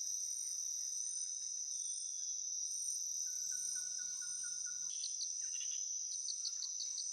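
Tropical rainforest insect chorus, a steady high-pitched drone, with birds calling over it: a run of about seven quick even notes a little past the middle, then a series of short high notes near the end.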